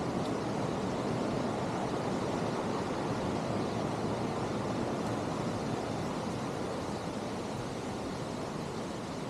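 Mountain stream rushing over rocks: a steady full rush of water, growing a little quieter over the last few seconds.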